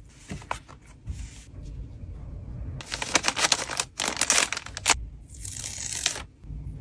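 Trading cards and plastic packaging being handled, with bursts of crinkling and clicking rustles, the loudest two in the middle. A low rumble of wind noise runs underneath.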